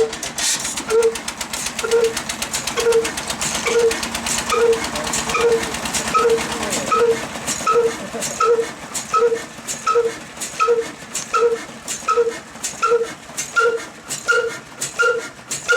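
Old sixteen-horsepower single-cylinder-style diesel engine running slowly, with an even beat a little faster than once a second that quickens slightly, over a fast mechanical clatter.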